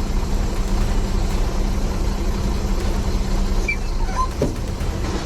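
Steady vehicle and traffic noise: a constant low engine hum under an even roar, with a few faint short high squeaks about four seconds in.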